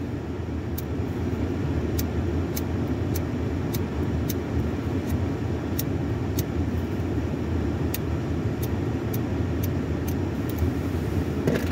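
Steady low rumble of a car idling, heard from inside its cabin, with light high ticks every second or so at uneven spacing.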